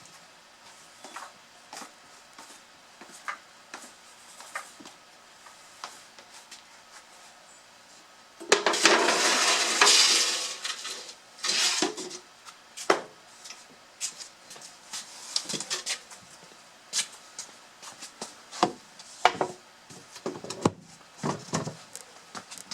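Split firewood clattering through a culvert-pipe wood chute: one loud, rattling slide lasting about two seconds starts about eight seconds in, with a shorter one just after, and scattered knocks of wood landing on wood before and after.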